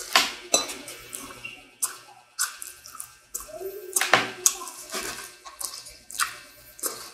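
Close-miked eating sounds of fast-food fries and fried potato: wet chewing and mouth smacks, mixed with short crinkles of the paper bag the food is pulled from. The sounds come as a run of irregular sharp bursts.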